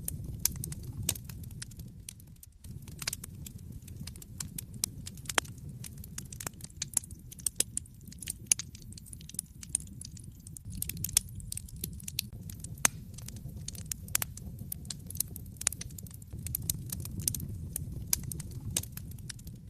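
Wood fire burning in a fireplace, crackling with frequent sharp pops and snaps over a low, steady rumble of flames; the rumble drops out briefly about two and a half seconds in.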